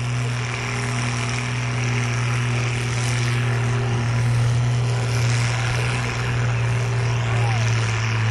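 Oliver Row Crop 88 tractor's engine running under load as it pulls the sled, a steady deep drone that holds its pitch.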